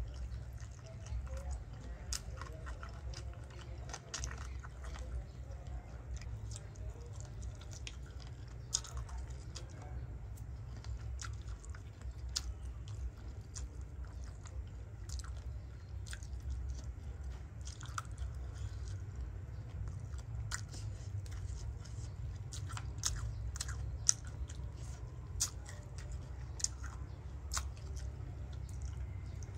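Someone chewing and biting pickled chicken feet: wet chewing broken by many short, sharp crunchy clicks, over a steady low rumble.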